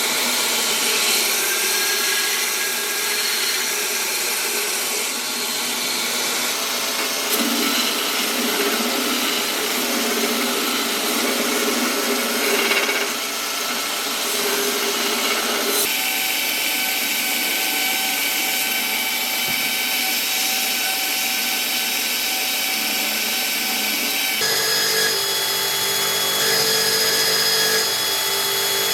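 Electric power tool running steadily under load, grinding or sanding, with its whine shifting pitch abruptly three times.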